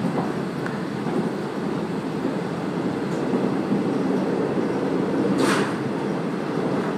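Passenger train running along the track, a steady rumble with a brief hiss about five and a half seconds in.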